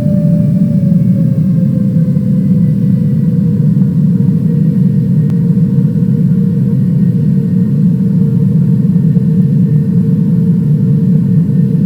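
Airliner engines running with a steady low rumble, their whine slowly dropping in pitch as they wind down.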